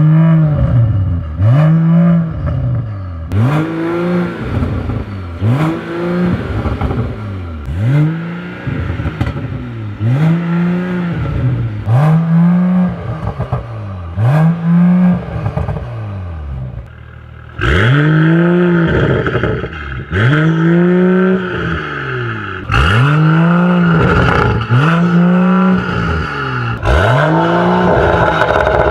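Mercedes-AMG CLS53's turbocharged inline-six breathing through an Armytrix exhaust, revved over and over with about a dozen throttle blips, each rising and falling, roughly two seconds apart. About two-thirds of the way in it gets louder and brighter.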